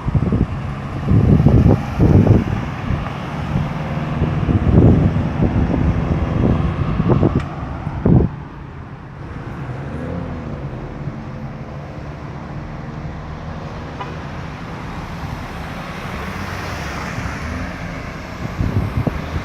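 Road traffic at a roundabout: cars and other motor vehicles passing, loud and uneven for the first eight seconds, then dropping suddenly to a quieter, steady engine rumble.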